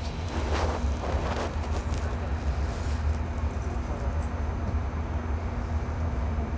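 Interior of an E501 series EMU motor car standing still, its onboard equipment giving a steady low hum with a constant mid-pitched tone. Two short hissing bursts come about half a second and about a second and a half in.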